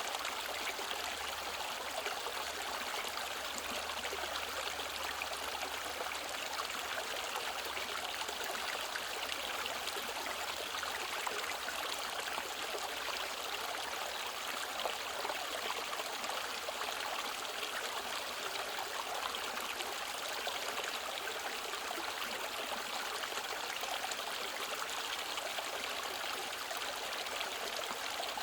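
Mountain stream flowing over rocks, a steady rushing and trickling of water.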